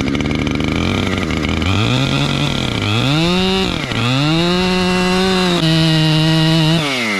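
Chainsaw running, revving up about two seconds in and bogging down briefly twice as it cuts into the trunk. It then runs steadily at full speed and winds down near the end.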